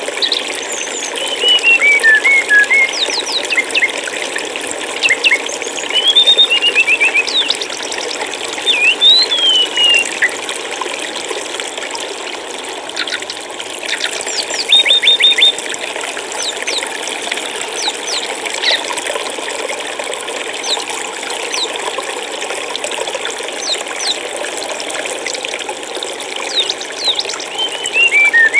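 Flowing stream water rushing steadily, with small birds chirping and whistling short calls over it. The calls come in clusters: busiest in the first ten seconds, again around the middle, and near the end.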